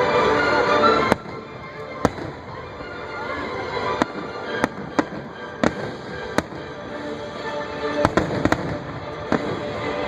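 Aerial fireworks shells bursting: about a dozen sharp bangs at irregular intervals, with a quick cluster near the end. Show music plays under the bursts and drops away sharply about a second in.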